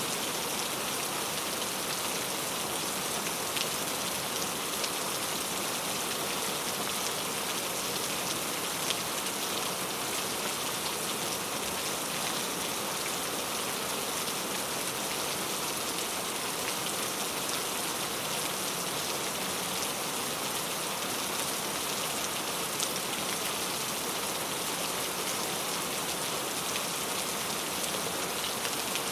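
Heavy rain falling steadily: an even, unbroken hiss with scattered small drop ticks.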